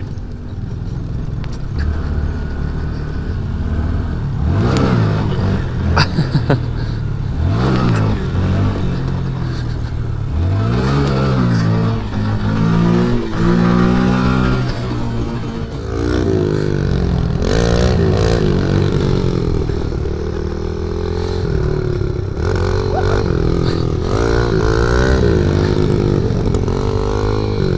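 Small single-cylinder four-stroke mini bike engines revving hard while riding in snow, the engine pitch rising and falling again and again as the throttle is worked.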